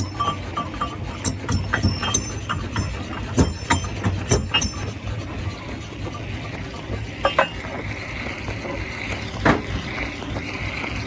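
Stone crusher running with a steady low hum while rocks clank and knock against its metal. Sharp clinks come thick in the first few seconds, then only a couple of separate knocks later.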